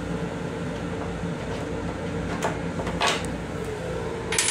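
Steady running hum of a Long Island Rail Road M7 electric railcar, heard inside its restroom. Two short knocks come about halfway, and a louder brief clatter near the end, as the toilet and its plastic surround are handled.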